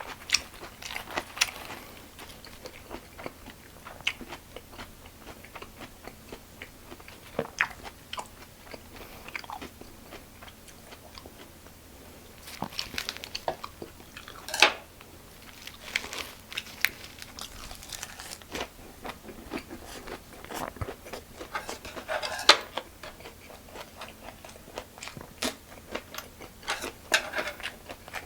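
A person chewing and crunching food close to the microphone: irregular crunches and small clicks, with louder crunches about 15 and 22 seconds in.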